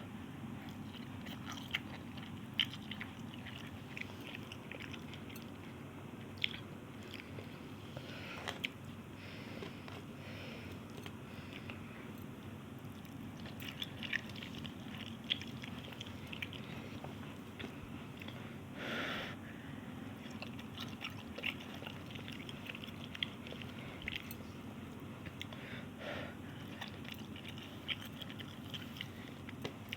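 A person chewing and eating Maggi instant noodles, with many short, irregular mouth clicks and a longer eating sound about two-thirds of the way through, over a steady low hum.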